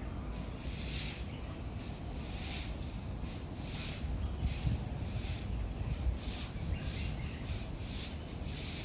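A broom sweeping in a steady rhythm of swishing strokes, roughly one or two a second, over a low background rumble.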